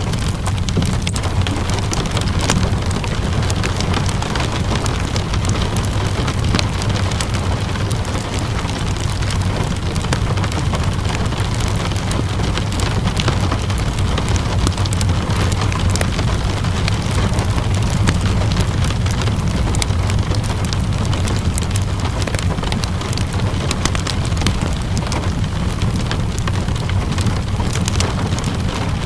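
Steady rainfall mixed with a crackling wood fire: an even hiss of rain over a deep low rumble, with small sharp pops and ticks scattered throughout.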